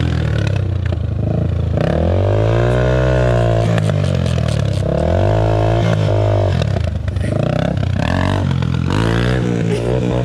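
Dirt bike engine revving up and falling back several times as the throttle is worked, its pitch rising and sinking in repeated swells.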